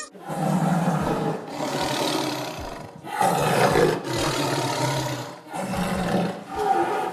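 A big cat roaring and growling repeatedly, about six long calls in a row with short breaths between them.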